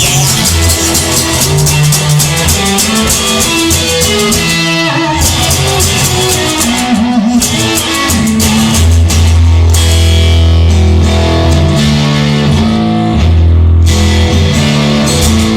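Instrumental break of a rock song: electric guitar over bass guitar and a drum kit, with a short drop-out about five seconds in.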